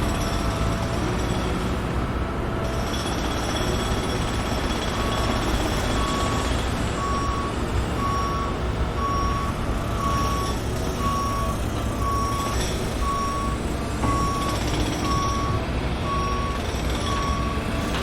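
Reversing alarm of a heavy vehicle on a construction site, a single-pitch beep about once a second starting about five seconds in, over a steady low engine rumble.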